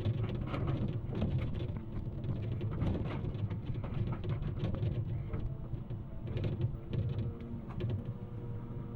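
Excavator's diesel engine running steadily with a constant hum, under many small sharp cracks and snaps, as of coffee bush stems and roots breaking.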